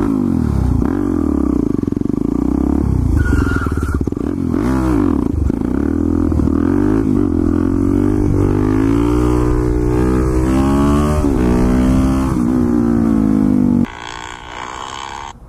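Motorcycle engine running hard, its pitch rising and falling over and over with the throttle and gear changes. It drops away sharply near the end.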